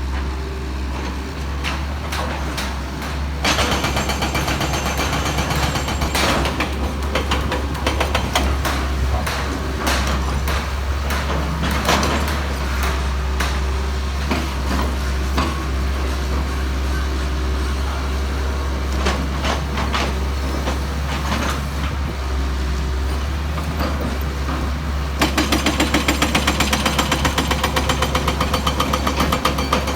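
Heavy excavation machinery at work: a steady, low diesel rumble with irregular clanks and knocks. Near the end a rapid, evenly spaced hammering starts.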